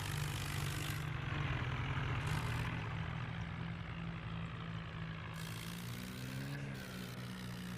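Swaraj tractor's diesel engine running steadily, with a slight rise and fall in pitch near the end.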